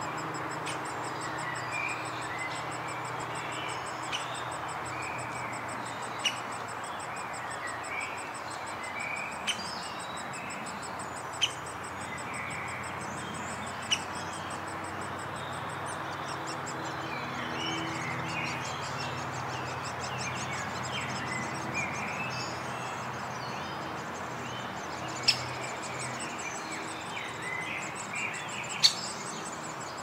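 Scattered bird chirps over a steady background hiss, with a faint high rapid trill throughout. About seven sharp clicks come at irregular intervals, the loudest near the end.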